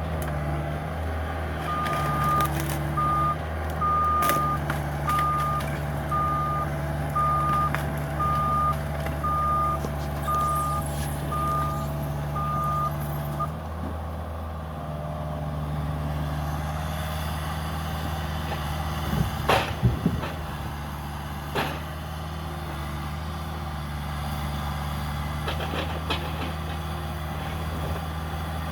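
Cat 305 mini excavator's diesel engine running steadily while its travel alarm beeps about once a second, then stops about 13 seconds in. Later, a few sharp cracks, the loudest sounds here, come from the demolition.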